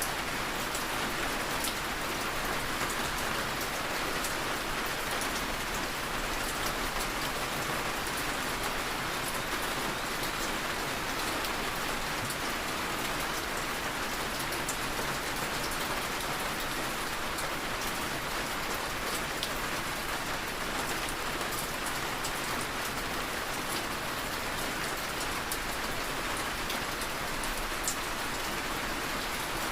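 Steady heavy rain falling on surfaces, an even hiss with scattered individual drop ticks.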